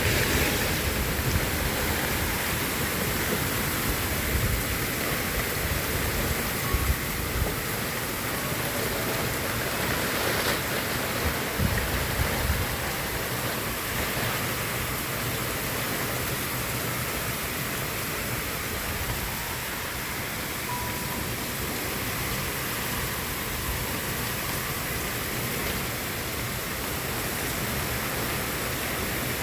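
Heavy rain pouring steadily in a thunderstorm, a dense even hiss. For the first twelve seconds or so it comes with uneven low thumps and buffeting.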